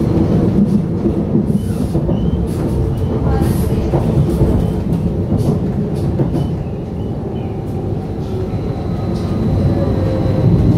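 Stadler FLIRT electric multiple unit running along the line: a steady rolling noise of wheels and running gear heard from inside the passenger car.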